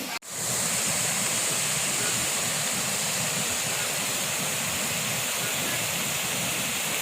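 Floodwater rushing and flowing in a steady, unbroken rush.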